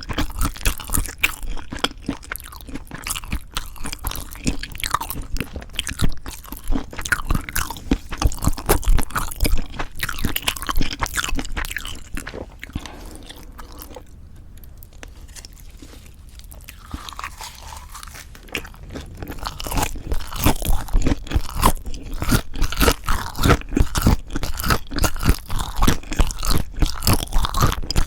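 Close-miked chewing of food with dense, crisp crunches. It quietens for a few seconds midway, then picks up again.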